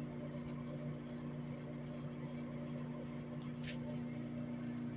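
Microwave oven running with a steady electrical hum, a marshmallow heating inside; a few faint ticks come through.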